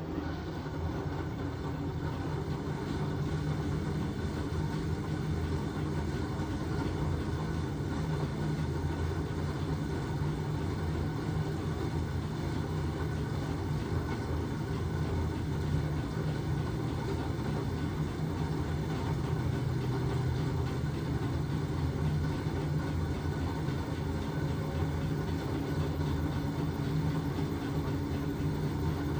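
LG washing machine running with a steady low motor hum, which grows a little louder over the first couple of seconds and then holds even.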